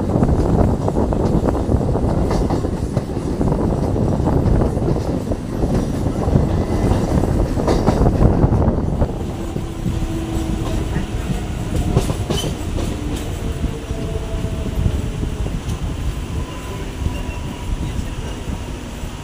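Electric multiple-unit local train running loudly, wheels rumbling and clacking over rail joints. About nine seconds in, the noise drops as the train slows alongside the platform, leaving quieter running with a few thin whining tones and the odd clack.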